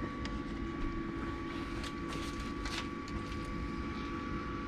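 Newly replaced cooling fan of an ALLPOWERS S2000 Pro portable power station running steadily while the unit charges: a steady whirr with a thin, high, constant whine over it.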